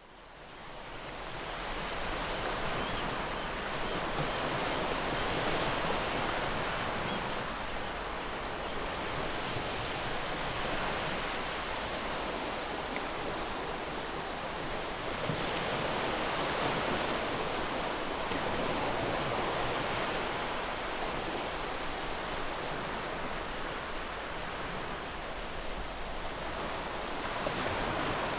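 Sea waves washing onto a shore, a steady rush that fades in at the start and swells and eases every few seconds.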